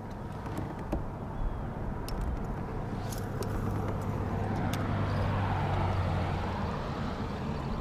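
A motor vehicle running, with a steady low engine hum and road noise that builds up in the middle, and a few light clicks.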